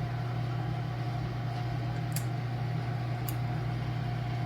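Steady electric motor hum from shop machinery, with two faint high clicks about two and three seconds in.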